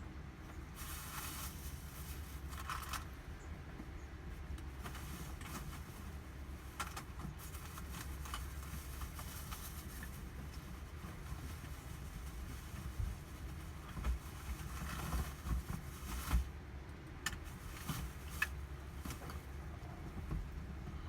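Outdoor ambient noise: a steady low rumble with brief hissing swells, one about a second in and another around fifteen seconds in, and scattered light clicks.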